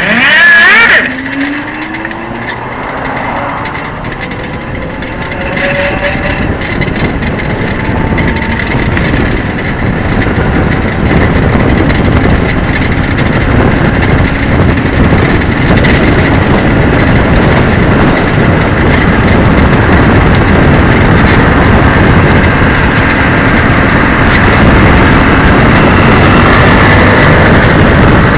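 The 150cc engine of a NomadOmatic x2 leaning trike motorcycle accelerating, its pitch rising over the first few seconds, then running steadily under road and wind noise that grows louder toward the end.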